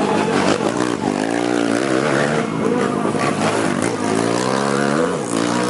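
Dirt bike engines revving on the track, their pitch rising and falling as the riders work the throttle through the course.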